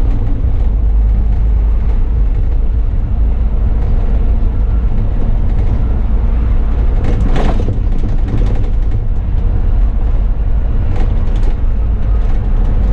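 Bus engine and road noise heard from the driver's cab while under way, a steady low rumble. About halfway through there is a short burst of noise.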